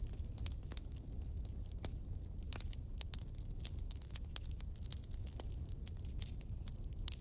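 Wood campfire crackling, with frequent irregular sharp pops and snaps over a steady low rumble of the flames. A brief faint high whistle rises about two and a half seconds in.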